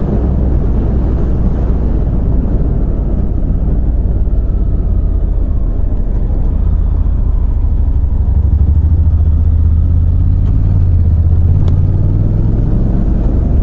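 Motorcycle engine running under way with wind and road noise, heard through a microphone inside a full-face helmet. The engine note grows a little louder from about eight seconds in.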